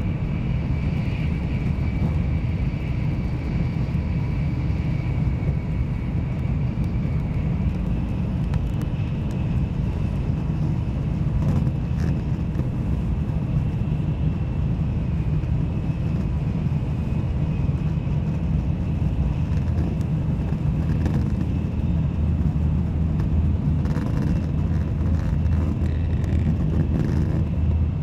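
Cabin noise inside an N700 series Shinkansen running at high speed: a steady low rumble with a faint thin high tone held above it.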